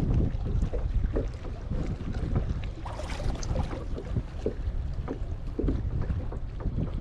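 Wind buffeting the microphone with a steady low rumble, while water laps and slaps against a kayak hull in short irregular splashes.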